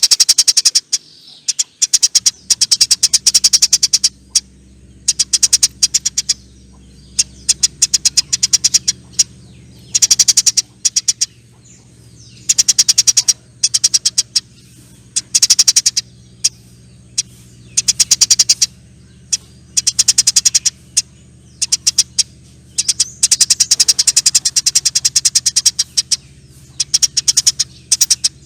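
Eurasian tree sparrow giving its long, rapid chattering call (nyerecet) in repeated loud bouts of a second or more, separated by short pauses. A faint steady low hum sits underneath from about two seconds in.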